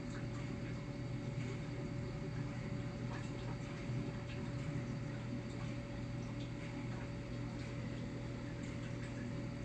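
Steady low hum with a faint higher steady tone, and a few faint small clicks scattered through it.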